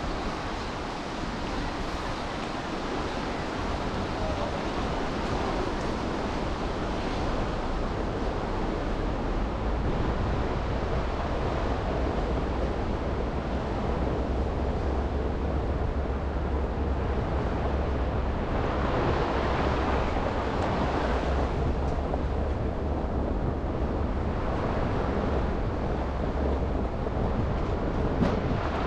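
Steady hiss of car tyres on wet streets after snow, with low engine and road rumble that grows after about ten seconds. A louder swell of hiss comes about two-thirds of the way through, and a short click near the end.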